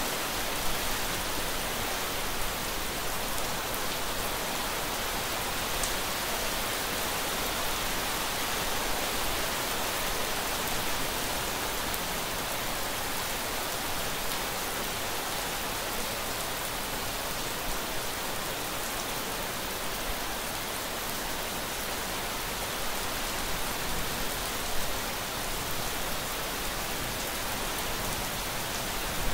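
Steady rain falling: an even hiss with a few scattered louder drop taps.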